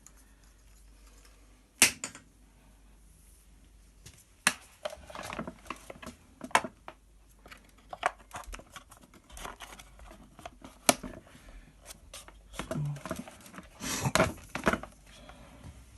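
Clicks, knocks and rustles of a Festool DF 700 domino joiner and its detachable power cable being handled and connected, with the motor not running. The sharpest click comes about two seconds in, with another about eleven seconds in and a busy cluster of handling noise near the end.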